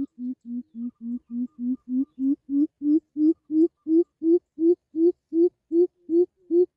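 Greater coucal giving its deep, booming call: a long run of low hooting notes, about three a second. The notes start slightly lower and rise a little in pitch and loudness as the series goes on.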